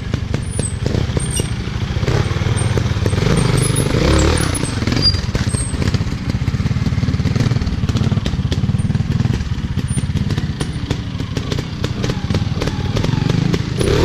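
Dirt-bike engines running, with a dense, rapid pulsing of the exhaust.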